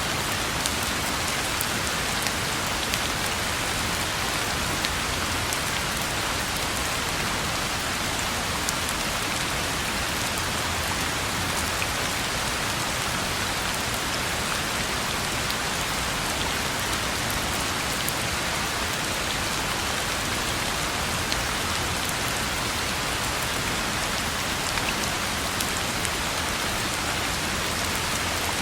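Steady rain falling on a road: an even hiss of rain with scattered individual drops ticking through it.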